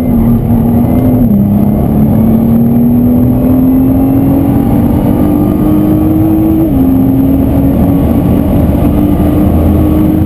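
Track car's engine under hard acceleration, heard from inside the cabin over loud road and tyre noise. The engine note climbs steadily and drops sharply twice, about a second in and again near seven seconds, as the driver shifts up.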